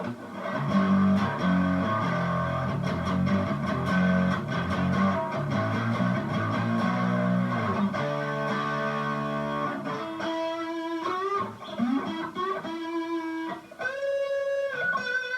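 Electric guitar, a Strat copy, played through a distortion pedal into a mini amp head and a Vox BC108 cab. For about eight seconds it plays low distorted chords and riffs, then switches to single sustained lead notes with bends and vibrato.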